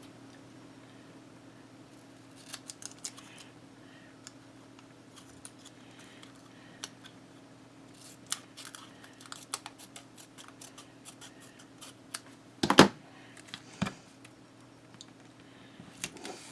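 Scissors snipping paper in short, scattered runs of cuts while the paper is trimmed, with a louder knock about thirteen seconds in and a faint steady hum underneath.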